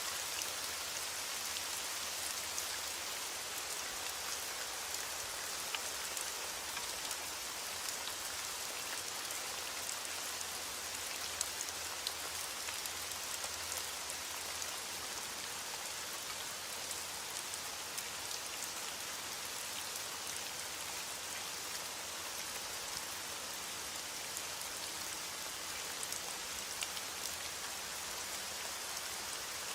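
Steady rain falling: an even hiss with the patter of individual drops ticking through it.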